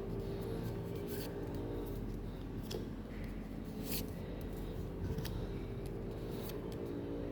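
Card packs and packaging being handled: scattered sharp clicks and snips, about four in all, over a steady low hum.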